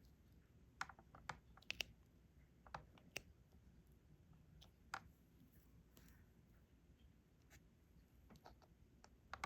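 Light, scattered clicks and taps of a diamond painting pen setting small resin drills onto the canvas, a few close together early on and then sparser.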